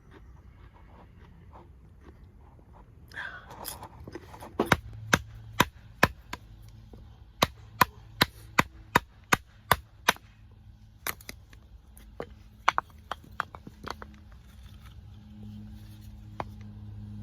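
Chopping on wood: a run of sharp, evenly spaced chops, about two a second, starting a few seconds in, pausing briefly, then a few more before stopping.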